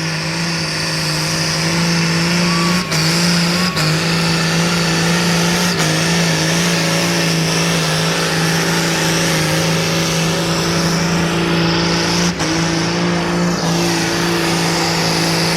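Tractor engine running flat out under heavy load as it drags a weight-transfer pulling sled, holding one steady high drone with a few brief dips in revs.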